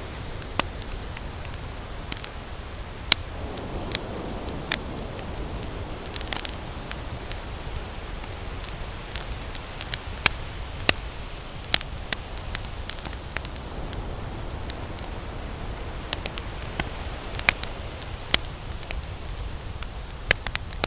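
Wood campfire crackling, with irregular sharp pops and snaps over a steady low rumble. A soft swell of waves washes in about four seconds in and again near the end.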